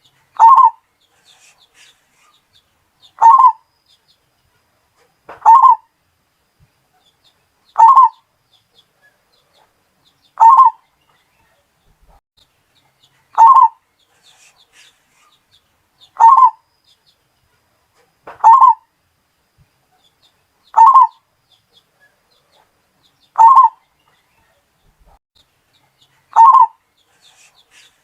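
Zebra dove (perkutut) cooing: a short call centred near 1 kHz repeated at even intervals of about two and a half seconds, eleven times.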